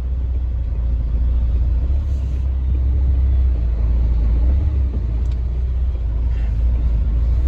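Crane truck's engine running with a steady low rumble.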